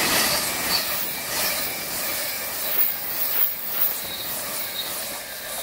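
Virgin Pendolino electric express train passing close at speed: a loud, steady rush of air and wheels on rail, with a few sharp clacks of wheels over rail joints about three seconds in, easing a little towards the end.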